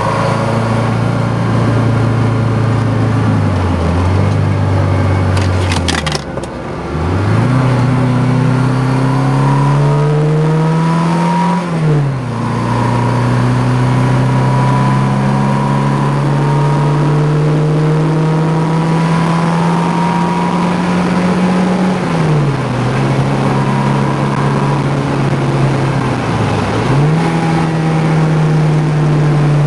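1974 BMW 2002tii's fuel-injected four-cylinder engine pulling through the gears under hard acceleration. Its pitch climbs and falls sharply at each shift, three times in the first dozen seconds, then holds at a steady pull with two brief dips and recoveries later on. A few sharp clicks come about six seconds in.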